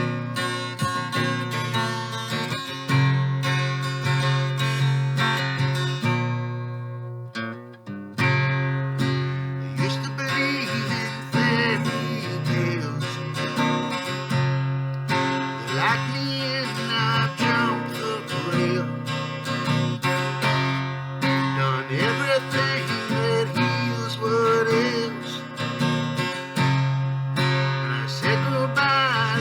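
Acoustic guitar strummed steadily in an instrumental passage. The playing drops away briefly about seven seconds in, then resumes. Through the second half a wavering higher melody line runs over the strumming.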